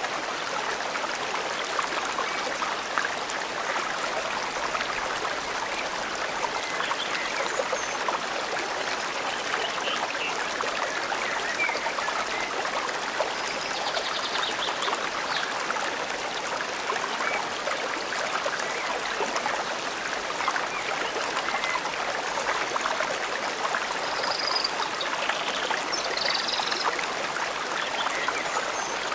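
Forest stream flowing steadily over rocks, with a few faint bird chirps here and there.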